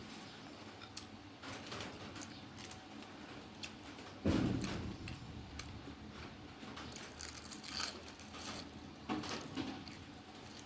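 Eating noodles from a bowl: scattered small clicks and knocks of utensils, with one louder dull thump about four seconds in.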